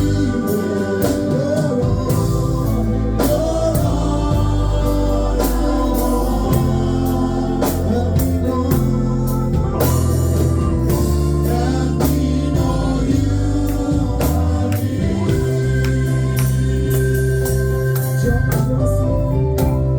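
Gospel music with singing, over a band with organ, bass and drums keeping a steady beat.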